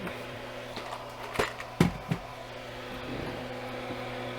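A few light clicks and taps from small parts being handled on a workbench, over a steady electrical hum.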